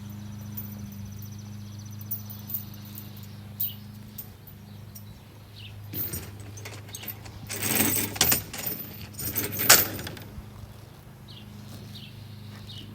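Vehicle engine running steadily at a low hum, with a few seconds of loud clinking and rattling about eight to ten seconds in.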